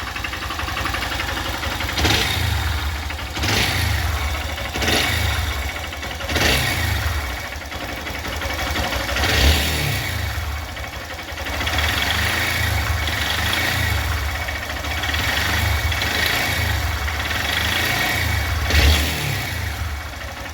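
Honda Bros 160 single-cylinder four-stroke engine running on the stand, its throttle blipped about a dozen times, with a knock ('batida'). The knock comes from a connecting rod with excessive play and a scored cylinder wall.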